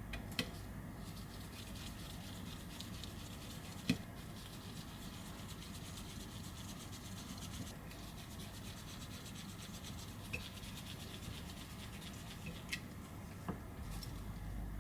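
Repair tool scraping and rubbing against an iPhone 11's frame as the volume and mute buttons are worked loose, with a few light clicks, the sharpest about four seconds in.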